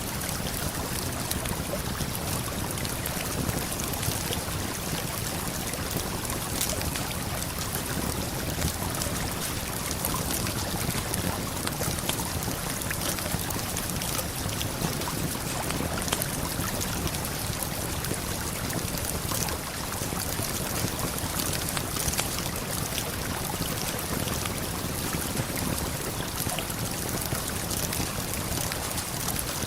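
Steady rushing of a waterfall and flowing river water, with scattered small crackles of a campfire.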